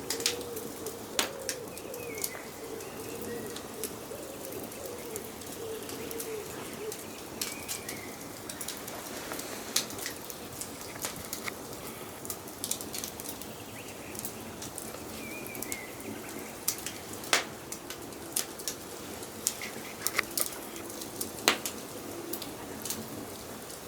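Wood fire crackling, with frequent sharp pops and snaps over a steady hiss. Forest birds call in the background: a low wavering call through the first several seconds, and a few brief higher chirps.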